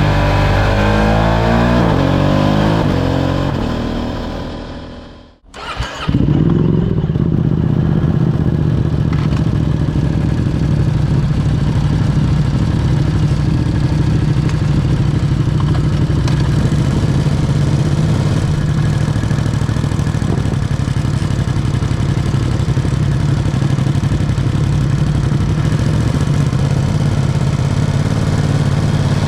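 Ducati Streetfighter V2's V-twin engine with revs falling away until the sound dies out about five seconds in, then the engine comes back abruptly and runs steadily at idle.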